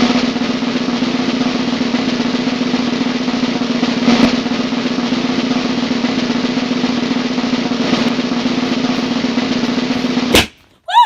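Snare drum roll held steadily for about ten seconds, then cut off by a sharp hit near the end.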